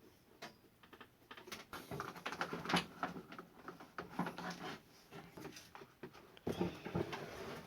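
Scattered light clicks, taps and small rattles of plastic parts being handled and fitted together while a small air cooler's fan and its wiring plug are put back in place.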